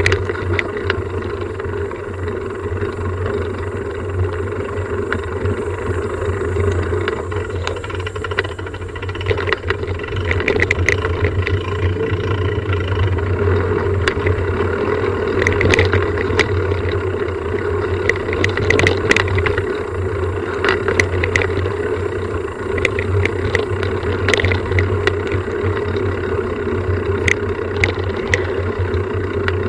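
A steady motor drone with scattered rattles and clicks over it.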